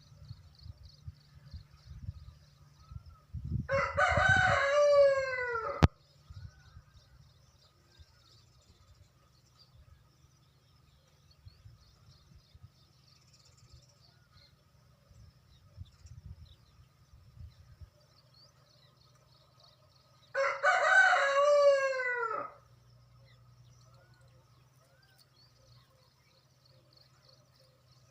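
Two long, loud bird calls from a fowl, each about two seconds and dropping in pitch at its end, the first about four seconds in and the second about twenty seconds in.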